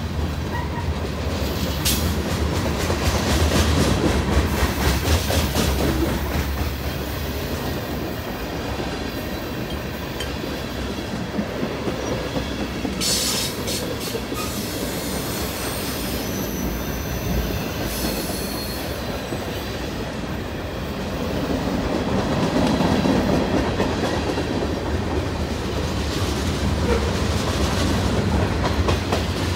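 Loaded freight cars of a CN manifest train (covered hoppers and tank cars) rolling past in a continuous rumble of steel wheels on rail. Now and then there are sharper clicks and high wheel squeal as the cars run onto the curve.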